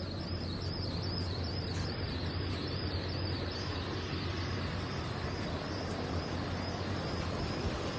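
Steady outdoor background noise, a low hum under a broad hiss, with a faint high warbling chirp repeating through the first half.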